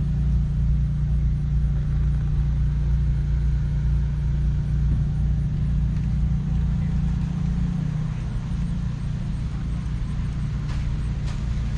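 A motor vehicle engine running steadily, a low hum that eases down a little in pitch about eight seconds in.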